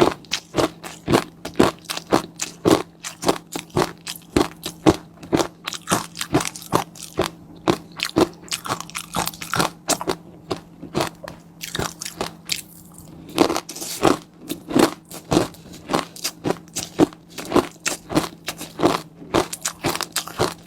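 Close-miked chewing of food, a continuous run of crisp crunching bites at about two to three a second, with a short lull about two-thirds of the way through. A faint steady low hum runs underneath.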